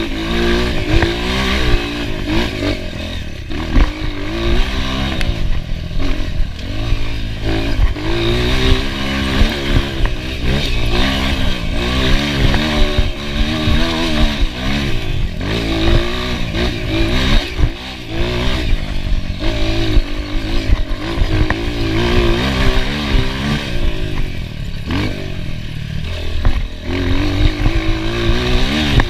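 Enduro motorcycle engine being ridden hard, its pitch rising and falling over and over every second or two as the throttle opens and closes, with scattered clattering knocks.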